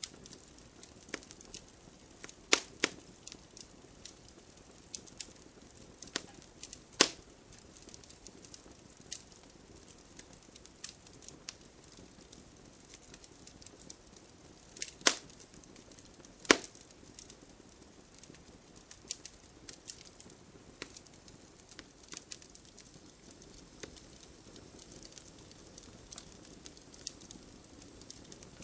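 Wood fire crackling: scattered sharp snaps and pops over a faint steady hiss, a handful of them much louder than the rest.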